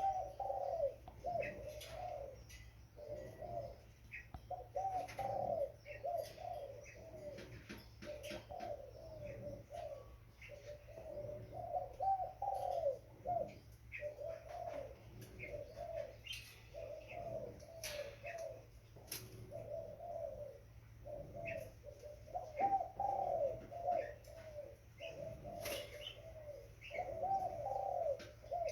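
Young spotted dove cooing over and over in short phrases every second or two. Faint sharp chirps and clicks sit above the coos, and a low steady hum runs underneath.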